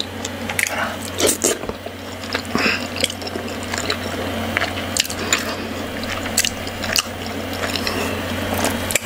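Close-miked eating sounds: wet, squishy chewing and mouth clicks as soft dough dipped in stew is taken by hand and chewed. A steady low hum sits underneath.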